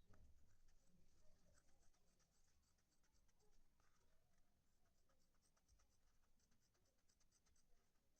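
Faint, rapid scratching strokes repeated several times a second, as of hand work rubbing or scraping on a surface.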